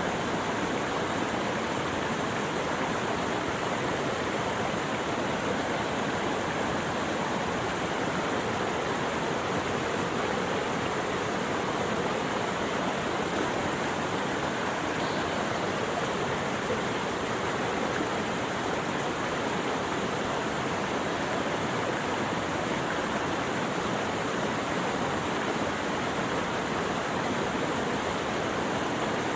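Running water rushing steadily with an even, unbroken hiss.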